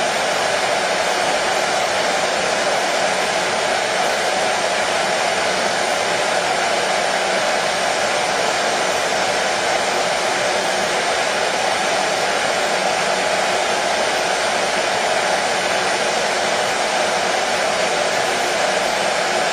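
Hair dryer running continuously: a steady, unchanging whooshing blow of fan and air noise.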